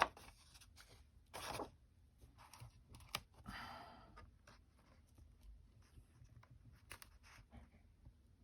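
Paper being handled and pressed down by hand: faint crinkling rustles with a few sharp clicks. The loudest rustle comes about a second and a half in, and a longer scratchy rustle follows at about three and a half seconds.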